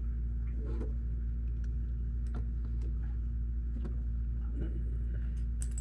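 Steady low rumble, with scattered light clicks of plastic Lego pieces being handled.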